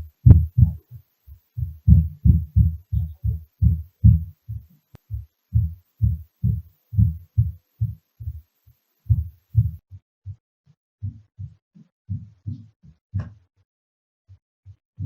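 Floor impact noise heard from the unit below: a run of dull, low thuds through the ceiling, like footsteps or running on the floor above, coming irregularly at about two a second and thinning out in the second half, with one sharper knock near the end.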